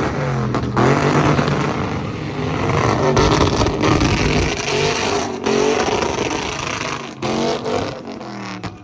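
Car engine being revved hard over and over, its pitch rising and falling, during a sideshow stunt.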